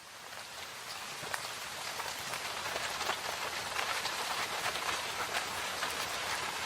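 Rain falling in a forest: a steady hiss of rain dotted with many separate drop hits, fading in from silence over the first second or two.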